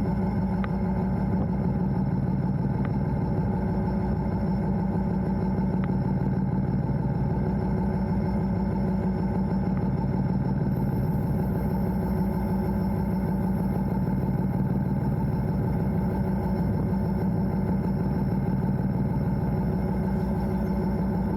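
EMD diesel locomotive's engine running steadily, heard from inside the cab: a continuous low drone with a fast, even pulse.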